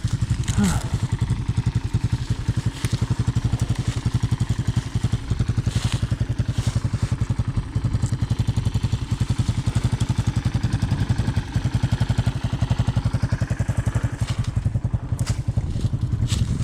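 Honda ATC 200M three-wheeler's single-cylinder four-stroke engine idling steadily with an even, rapid pulse and no revving. A few faint knocks come over it.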